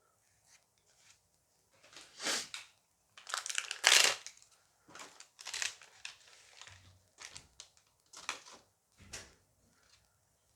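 Foil Dice Masters booster pack being torn open and crinkled in the hands: a run of short crinkling rustles, loudest about four seconds in.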